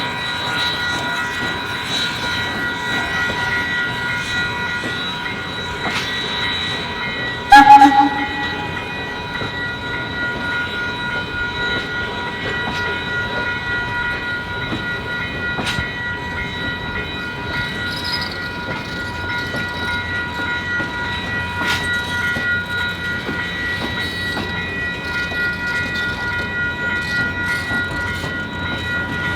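Steam-hauled passenger train on the rails, with steady noise and clattering and a continuous high-pitched squeal. A short, very loud whistle toot comes about seven and a half seconds in.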